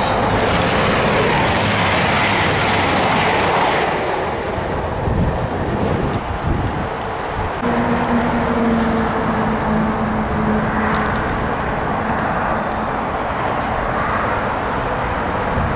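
An East Midlands Trains Class 222 Meridian diesel multiple unit passes through at speed: a loud rush of wheel and engine noise that eases after about four seconds. A few seconds later a steady two-tone hum sounds for about three seconds, with softer train noise behind it.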